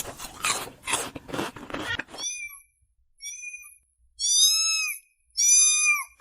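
An animal's high-pitched calls, four in a row starting about two seconds in, each a clear note with overtones that rises and falls, the last two longer and louder; before them, scratchy rustling noise.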